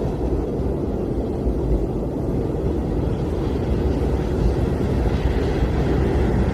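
Blizzard wind blowing steadily, a dense low rushing noise that never lets up.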